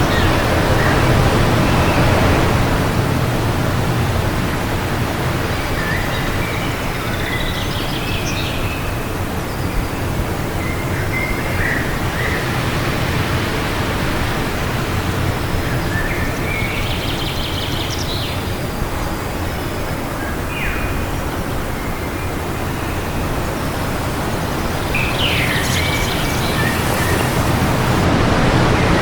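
Wind blowing steadily, swelling louder near the start and again near the end, with short bird chirps scattered over it.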